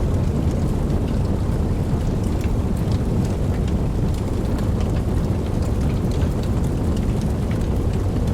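Steady, heavy rain: a dense, even wash weighted to the low end, with scattered sharp ticks of single drops.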